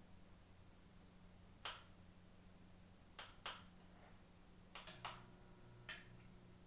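About six short, sharp clicks spread over a faint steady electrical hum. Just after a pair of clicks about five seconds in, a faint new steady hum starts and holds.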